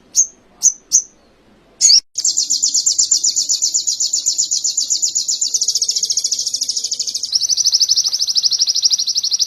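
Songbird singing a canary-style song: four quick high chirps and a short call, then a long, fast, rapid-fire trill that steps slightly lower in pitch about seven seconds in.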